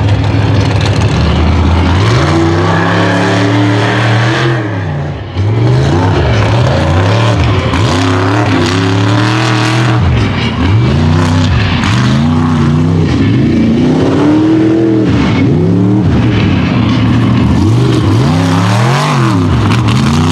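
Mega truck engine revving hard, its pitch climbing and falling again and again as the throttle is worked. The sound dips briefly about five seconds in.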